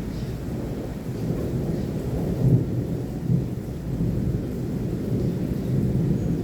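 Thunder rumbling low and long, swelling twice a few seconds in, over the steady sound of rain.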